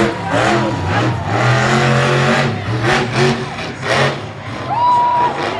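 Monster truck engine revving in repeated surges, its pitch rising and falling. A brief high whistle sounds near the end.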